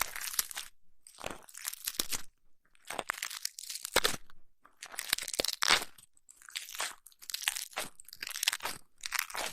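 Crunchy, crackling rubbing right against an ASMR ear microphone, as from an ear massage, coming in about ten short strokes with brief pauses between them.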